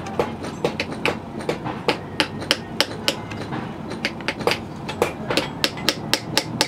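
Hand hammer striking metal in a steady rhythm, about three blows a second, each blow ringing briefly.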